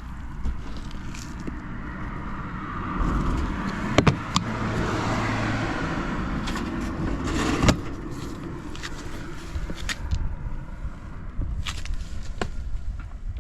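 Honda Smart Dio scooter's small four-stroke engine running, revved up about three seconds in and easing back down by about eight seconds. Two sharp clicks come during the rev.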